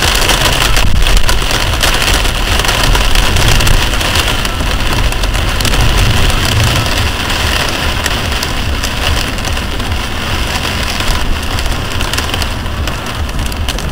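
Heavy rain pelting a car in a storm: a dense, steady hiss of drops with a low rumble underneath.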